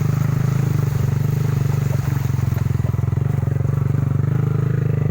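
Vehicle engine running at a steady speed, a low drone with a fast even pulse.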